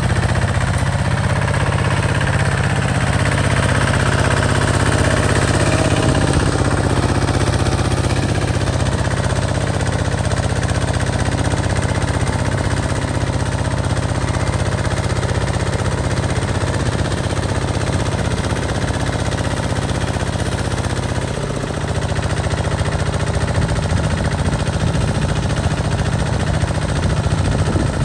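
A walking tractor's diesel engine running steadily under load while harrowing a field. Its note shifts briefly about three-quarters of the way through, then settles again.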